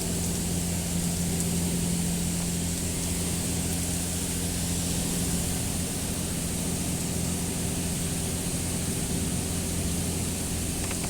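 Car wash machinery running: a steady mechanical hum under a constant hiss, unchanging throughout.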